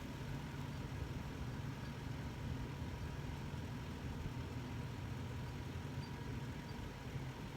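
An engine idling: a steady low hum with a faint, steady high tone above it.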